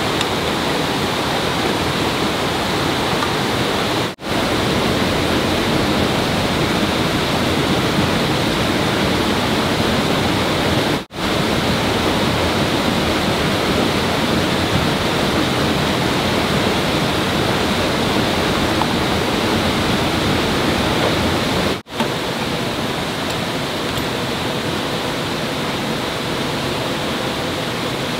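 Steady rush of flowing water, like a stream or small waterfall, broken three times by a brief dropout where shots are cut together.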